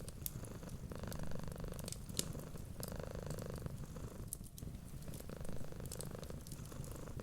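Cat purring steadily, swelling and easing with each breath in and out about every two seconds, with the sharp pops and crackles of a wood fire scattered over it.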